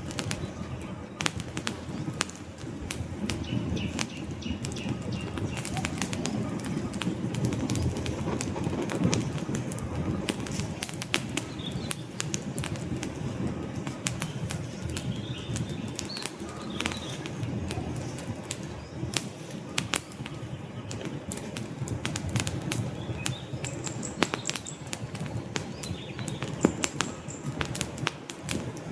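Wood fire in a fireplace crackling, with irregular sharp pops and snaps of burning logs over a low, steady rumble of the flames.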